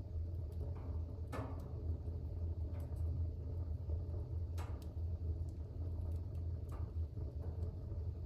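Wood fire burning in a fireplace: a steady low rumble with scattered crackles and pops, the two loudest about a second in and again near the middle.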